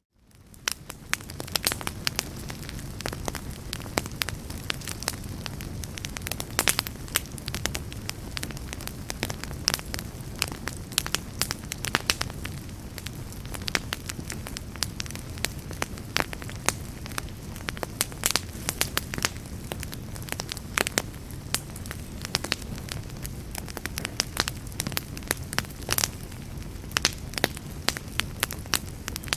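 Wood fire crackling, with frequent irregular sharp pops over a steady low rush. It fades in from a brief silence at the start.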